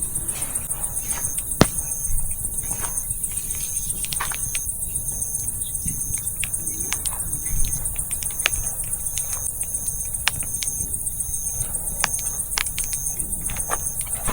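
Wood fire crackling, with scattered sharp pops from burning firewood, over a steady high trill of night insects and a short insect chirp repeating about twice a second.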